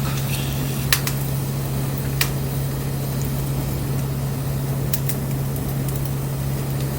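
Wood fire crackling: a few sharp pops from the burning wood, the loudest about a second in and another a second later, over a steady low hum.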